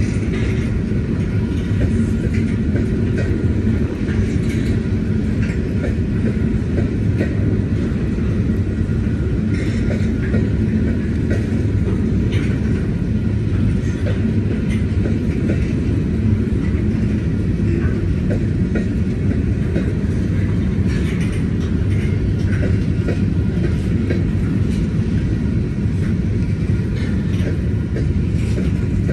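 Freight train of covered hopper cars rolling steadily past: a continuous low rumble of steel wheels on rail, with scattered clicks.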